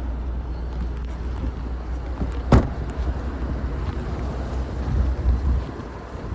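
A car's boot lid is shut with a single sharp slam about two and a half seconds in, over a steady low rumble of wind on the microphone.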